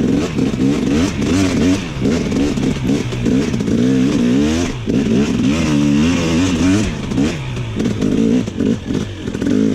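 Dirt bike engine revving up and down while being ridden, its pitch rising and falling again and again with the throttle, dipping briefly twice.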